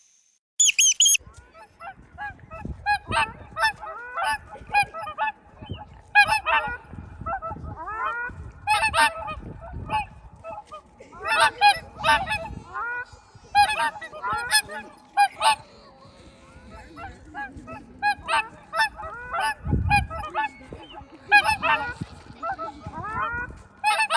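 A flock of geese honking: many short calls repeating and overlapping. A brief high squeaking call comes right at the start.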